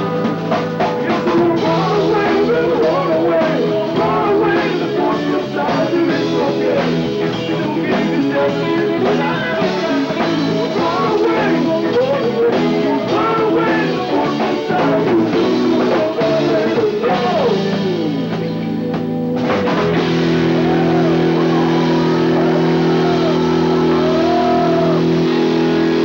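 Rock band playing live, heard on an old mini-cassette audience tape with no treble: guitar lines over drums and bass, then from about twenty seconds in the band holds one steady sustained chord.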